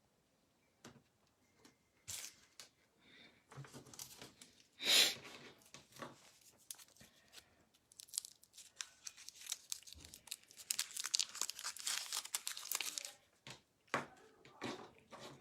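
Packaging being torn open and crinkled: irregular crackling and tearing, heaviest in a long stretch from about eight to thirteen seconds in, with scattered sharp clicks.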